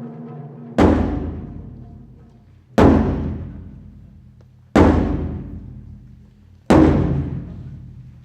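Japanese taiko drum struck four times, slow and evenly spaced about two seconds apart, each heavy stroke ringing out and fading before the next. A held pitched tone dies away just before the first stroke.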